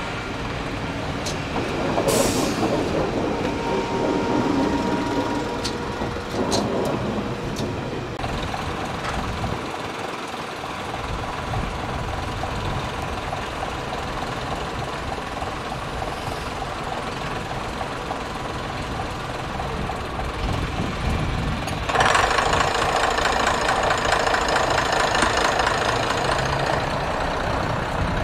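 Heavy diesel vehicle engine running steadily, with a louder rushing hiss that starts about three-quarters of the way through and holds.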